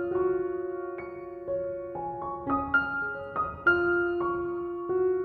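Background music: a gentle piano or electric-piano melody, single notes struck and left to ring and fade.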